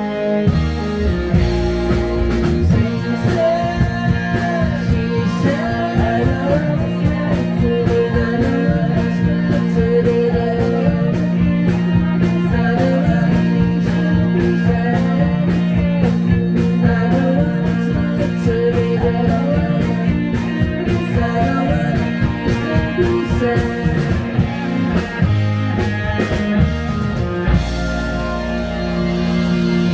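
Live rock band playing: electric guitars, bass and a steady drum beat.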